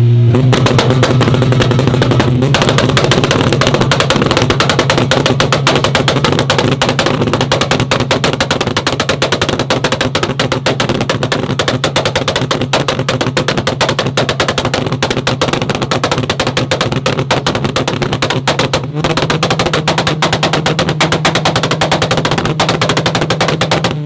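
Modified car engine held on a two-step rev limiter: a steady held engine note under a rapid, machine-gun-like stream of exhaust pops and bangs, with a brief break a little before the end.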